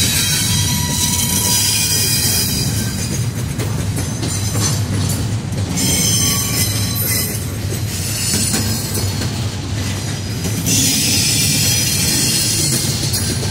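Double-stack intermodal freight cars rolling past on jointed track: a steady low rumble of wheels on rail, with a high-pitched wheel squeal that fades about three seconds in and comes back near the end.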